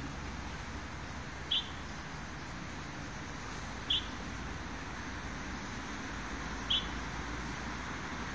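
A bird giving a single short, high chirp three times, a couple of seconds apart, over a steady low background hum.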